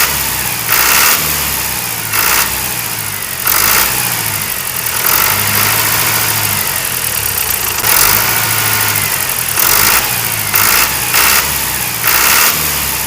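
An engine running steadily, with louder surges of noise every second or two.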